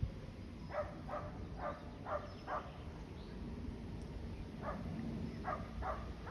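A dog barking in two runs of short barks, about half a second apart: five barks starting about a second in, then four more near the end.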